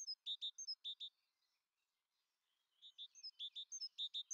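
Small bird chirping in quick, repeated phrases of short high notes, each phrase ending in a higher down-slurred note. The chirping breaks off about a second in and picks up again after a pause of nearly two seconds.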